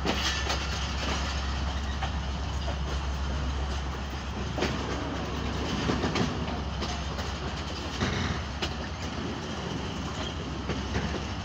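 Passenger train coaches running along the track, with a steady low rumble and the wheels clacking over rail joints and points in irregular knocks.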